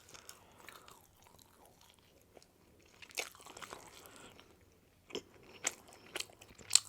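Close-miked eating of pizza: quiet chewing, then several sharp bites and crunches in the second half, the loudest one near the end.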